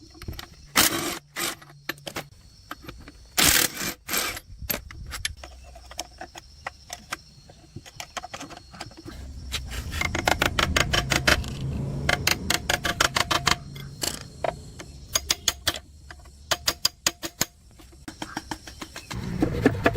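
Metal hand tools and engine parts clicking and clinking, with a few louder clattering strikes in the first few seconds and runs of rapid, even ticking later on.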